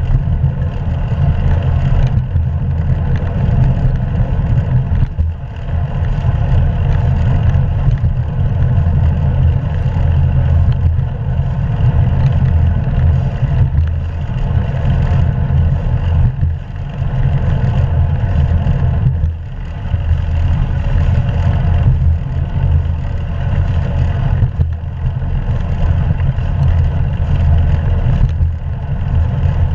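Steady rumble of wind and road noise on a GoPro camera riding along on a moving bicycle, heaviest in the low end, with a few brief dips.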